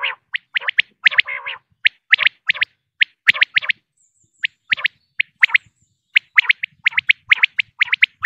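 Female common quail calling: rapid, irregular series of short high notes in clusters of two to four, with a couple of harsher, rasping notes in the first second and a brief pause about halfway.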